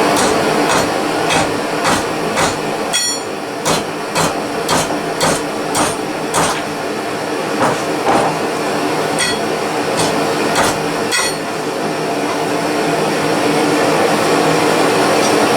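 Ball-peen hammer striking hot rebar being forged into a hook, about two blows a second, some with a metallic ring, over the steady roar of a pressurised blow lamp. The hammering stops about eleven seconds in and the blow lamp keeps running.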